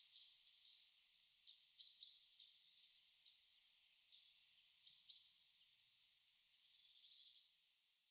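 Songbirds chirping: a busy run of quick, high, sliding chirps mixed with short whistled notes, faint throughout.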